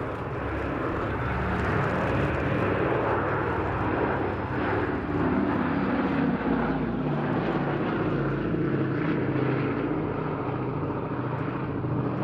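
Boeing B-17G's four Wright Cyclone radial piston engines droning steadily in flight, a deep multi-engine propeller drone that holds throughout.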